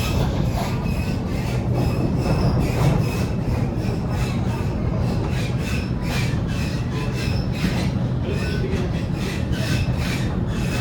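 Waratah A set electric train heard from on board while running: a steady rumble and hum of wheels and motors, with repeated clicks from the wheels on the track and faint brief wheel squeals.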